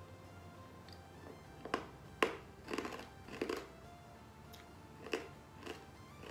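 A hard lemon candy being bitten and chewed: several sharp crunches spread over a few seconds, over faint background music.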